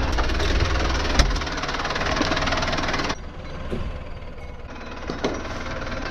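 An engine running with a steady, rapid pulsing. About three seconds in, the higher part of the sound cuts away abruptly, leaving a quieter, lower engine sound running on.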